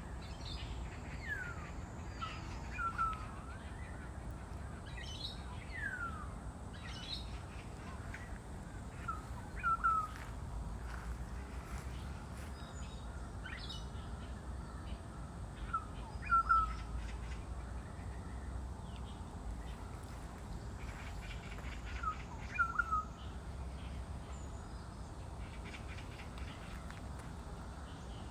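A bird calling outdoors: short falling calls repeated every few seconds, over a steady low rumble.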